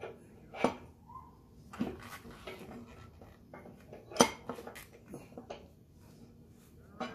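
Metal tools and parts clinking and knocking in a few scattered, separate strikes, the sharpest about four seconds in, during work on a motorcycle wheel.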